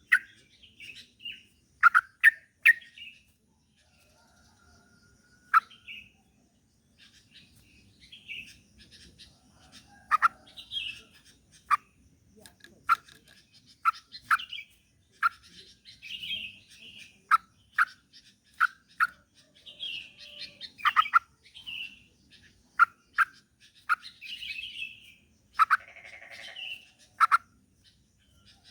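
Yellow-vented bulbul (trucukan) calling: short sharp chirps about once a second, mixed with bubbly warbled phrases, with a brief lull a few seconds in. It is a 'pendongkrak' recording, played to spur a sluggish caged bulbul into song.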